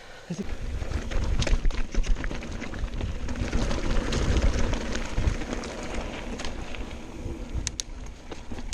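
Mountain bike riding fast down a rough trail: steady rumble of tyres over stones and dirt, with frequent rattling clicks and knocks, and wind on the microphone.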